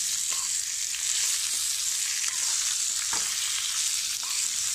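Boiled flat beans (chikkudu kaya) frying in hot oil in a kadai, a steady sizzling hiss, with a few faint clicks of a spoon stirring them.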